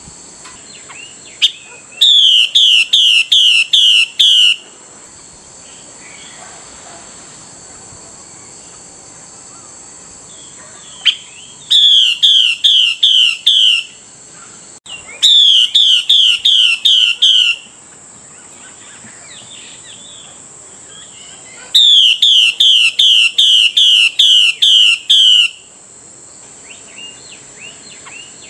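Female Chinese hwamei calling in four bursts of rapid, evenly repeated downslurred whistled notes, each burst lasting two to four seconds. This is the call keepers use to rouse a male hwamei into song. A steady high-pitched hiss runs underneath throughout.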